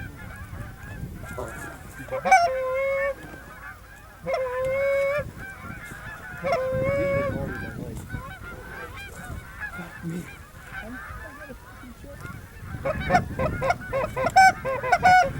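Geese honking: a steady chatter of many calls, with three long drawn-out honks early on and a dense burst of rapid honks and clucks near the end.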